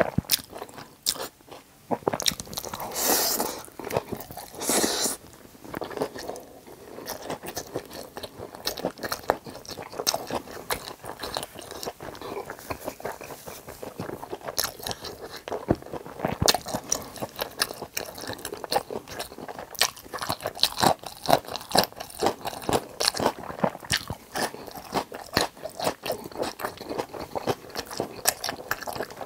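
Close-miked chewing of cheese-topped, sauced tangsuyuk (battered deep-fried pork), with rapid crisp crunches of the fried batter throughout. Two louder, drawn-out noisy sounds come about three and five seconds in.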